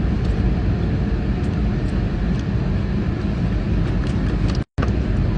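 Steady low rumble of vehicle cabin noise, cutting out for a split second near the end.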